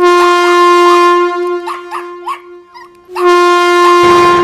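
Snake charmer's pungi playing: a reedy drone note held steady with short rising notes over it. The drone stops about a second and a half in and comes back near the end, where a rumbling noise starts under it.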